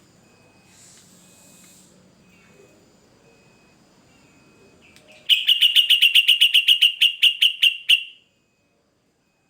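Yellow-vented bulbul (trucukan) singing a fast, loud run of evenly repeated notes, about ten a second, for nearly three seconds starting about five seconds in.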